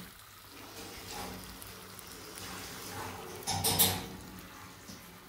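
Chicken, peppers and onions frying quietly in a karahi while a metal spoon stirs them, with one louder stir and scrape about three and a half seconds in.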